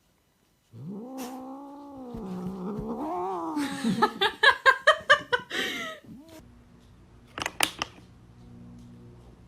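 A cat caterwauling: a long drawn-out yowl that wavers up and down, breaking into a quick run of short stuttering yowls, then a couple of brief sharp sounds near the end.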